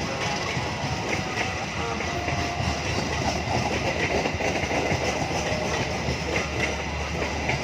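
Train passing along the track, the steady noise of its wheels running on the rails.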